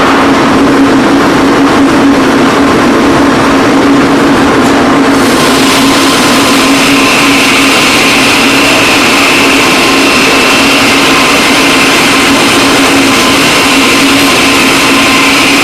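Üstünkarlı timber-squaring sawing machine running with a loud, steady hum. About five seconds in the sound grows brighter, and a steady high-pitched tone joins a couple of seconds later.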